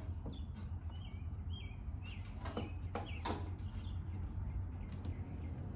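Small bird chirping faintly: a series of short, high chirps that stop about two thirds of the way through, over a low steady hum.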